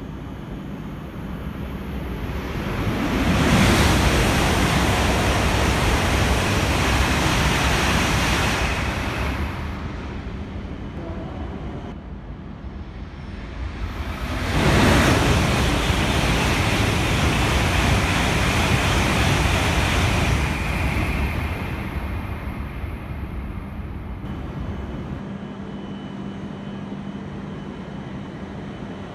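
Shinkansen trains passing through the station at speed without stopping: two loud rushing pass-bys of about six seconds each, the first about three seconds in and the second rising suddenly about fifteen seconds in. Between and after them, a lower steady background with a faint hum.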